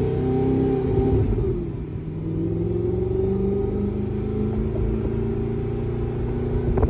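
2009 Audi R8's engine heard through its exhaust while driving: the revs drop about a second in, then climb steadily under acceleration, with a few sharp pops at the very end.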